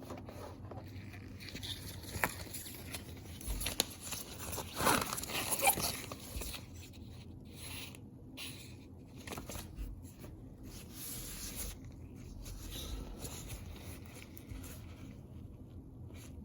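Hands handling packaging during an unboxing: scattered rustling, scraping and small clicks, busiest about four to six seconds in.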